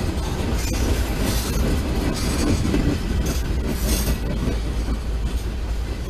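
Freight train of tank cars rolling past close by: a steady rumble of steel wheels on rail, with brief rushing surges and an occasional sharp click.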